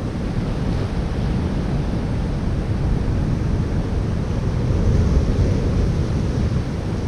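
Ocean surf washing against shoreline rocks, mixed with wind buffeting the microphone: a steady low rush that swells about five seconds in.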